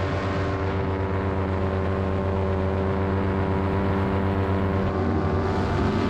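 Paramotor engine and propeller running steadily at a constant throttle in flight, a continuous drone.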